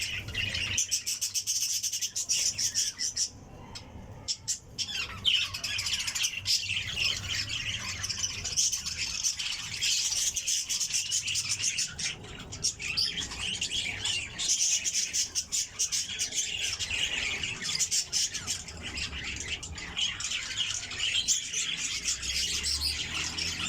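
Many small birds chirping at once in a dense, continuous chatter of high, overlapping calls, with a brief lull about three and a half seconds in.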